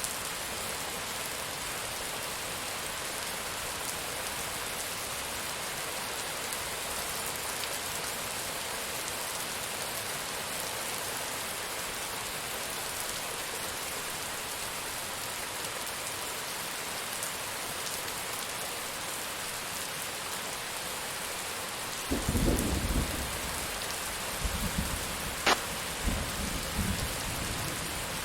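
Steady rain falling throughout. About 22 seconds in, thunder rumbles, followed by more rumbles and one sharp crack a few seconds later.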